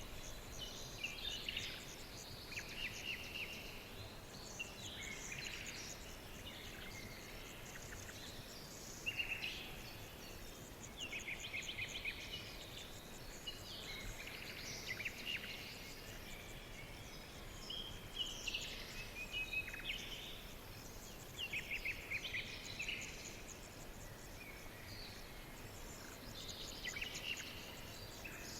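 Small birds singing and chirping in short, repeated trilling phrases every second or two, over a steady background hiss.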